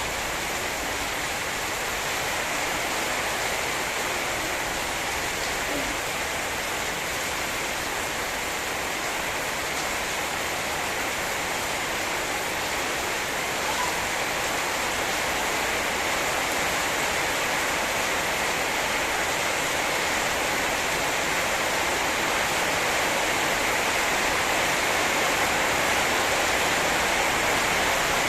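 Heavy rain pouring down steadily in a dense, even hiss, growing slightly louder near the end.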